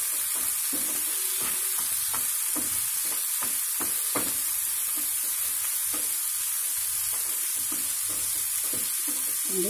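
Diced bottle gourd, onions and tempering frying in oil in a nonstick pan with a steady sizzle, while a spatula stirs and scrapes against the pan in quick, irregular strokes.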